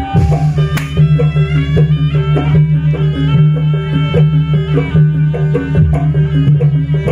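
Javanese jaranan buto ensemble music: kendang hand drums beating with a reedy wind melody over a steady low drone, with repeated struck metal notes.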